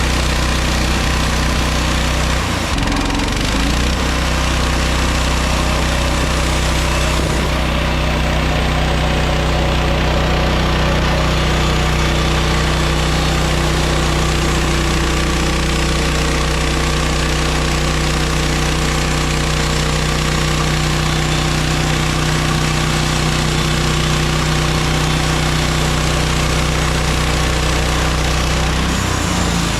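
Engine of a MechMaxx SM32 band sawmill running steadily at the sawmill, with a brief shift in pitch about three seconds in and again near the end.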